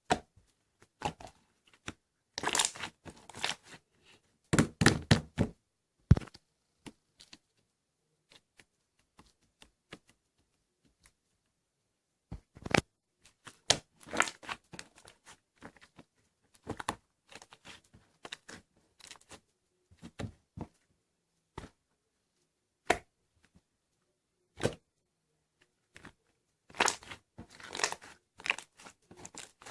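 Hands playing with slime: irregular bouts of sticky crackling and popping as it is pressed and stretched, with quiet pauses between.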